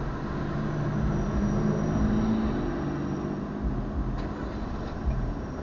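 A vehicle's engine and running noise heard from inside the cabin: a steady low hum that swells a little about two seconds in.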